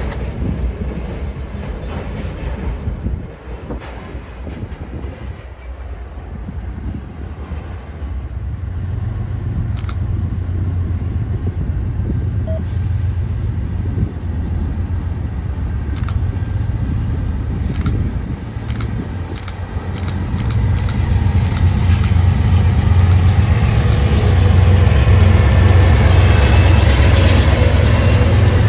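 Train rolling past: a steady low rumble with scattered sharp clicks from the wheels over the rails, growing louder about two-thirds of the way through.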